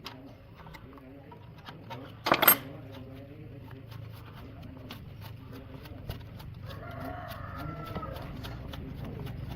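A rooster crowing in the background near the end, one drawn-out call. About two seconds in there is a short, loud, sharp noise, with light clicks and taps throughout.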